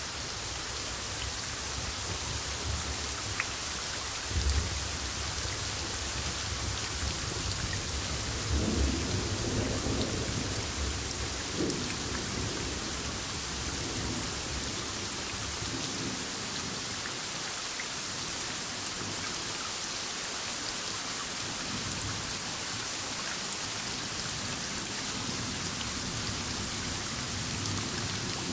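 Heavy rain falling steadily during a thunderstorm, with rolling thunder rumbling in the first half, loudest about four seconds in and again around nine to twelve seconds, then dying away under the rain.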